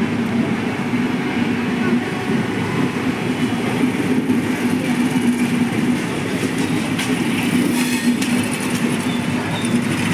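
Coaches of the Kochuveli–Amritsar Express, an Indian Railways express train, rolling past at speed. Their wheels on the rails make a steady rumble with a low steady hum, and a few sharp clicks come in the second half.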